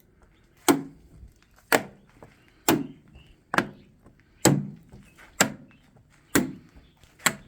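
A small magnet clacking onto the truck's steel lower body panels again and again, eight sharp clicks about a second apart. Each catch shows steel under the paint rather than body filler.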